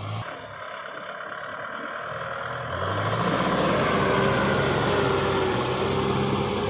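Kubota tractor engine running, growing louder about three seconds in, with a whine over the steady engine note.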